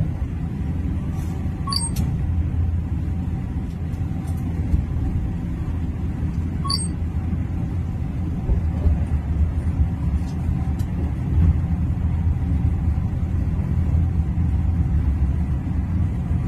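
Steady low rumble inside the coach of a Vande Bharat Express train running at about 180 km/h, with a couple of faint high clicks.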